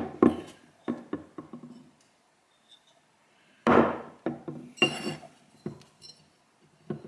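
Hard metal parts being handled and set down on a surface: a run of sharp knocks and clinks in two clusters, a few in the first second and a half, then several more after a pause of about two seconds.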